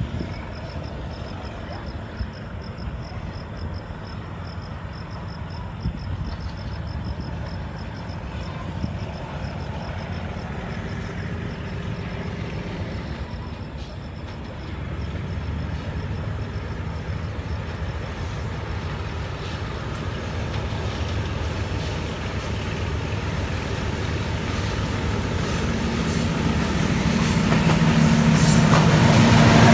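Pakistan Railways diesel locomotive hauling a coal freight train approaching: a low engine rumble that grows steadily louder, loudest at the end as the locomotive draws level. A steady high insect trill runs through the first half.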